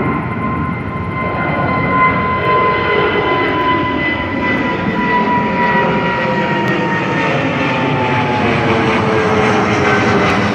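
Jet airliner departing, its engines running loudly at takeoff power with a whine that slowly falls in pitch as it passes.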